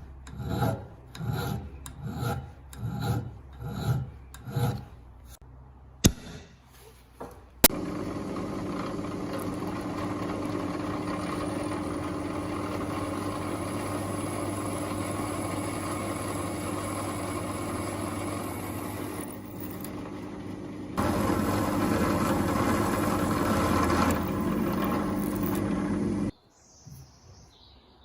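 Rusty metal being worked by hand: about seven rhythmic scraping or filing strokes. Then, after a couple of sharp clicks, a small electric tool starts and runs steadily with a grinding or brushing sound. It grows louder for a few seconds as it bears down harder, then switches off suddenly near the end.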